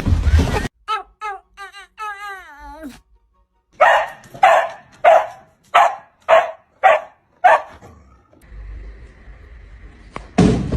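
A dog gives a few short, wavering whining cries, then barks seven times in a steady run, about two barks a second.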